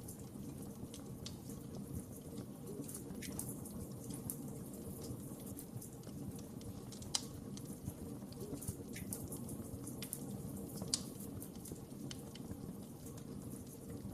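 Wood fire crackling: a steady low rush of burning with scattered sharp snaps and pops, two of them louder, about seven and eleven seconds in.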